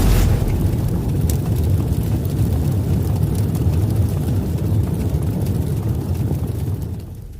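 Loud, deep engine rumble, likely a supercar's engine running, steady and noisy rather than pitched, fading away near the end.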